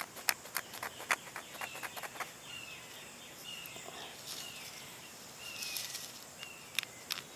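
Outdoor ambience. A quick run of sharp clicks and scrapes comes in the first two seconds, then a bird gives short, slightly falling chirps about once a second. A steady high insect drone runs underneath.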